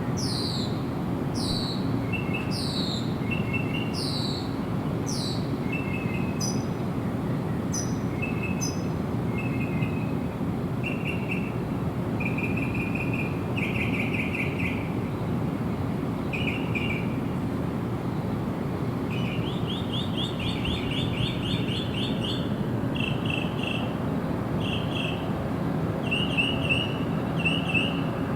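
Several songbirds calling: first a run of high whistles, each falling in pitch, about one a second, then short chirps and trills, including a rapid trill about two-thirds of the way through, over a steady low background rush.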